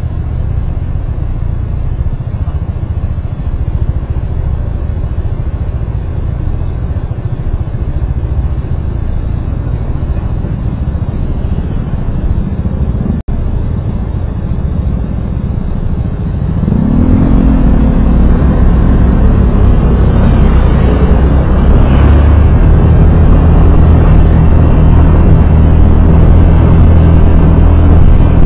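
Motor vehicle engine and road noise while driving, steady at first, then louder from about 17 s in as the vehicle accelerates, with the engine note rising and then holding steady. The sound cuts out briefly about 13 s in.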